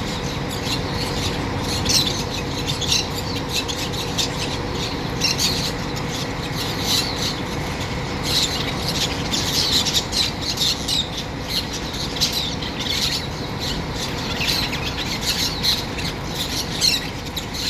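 Birds calling: many short, high, squawking calls repeating in quick clusters, over a steady low background rumble.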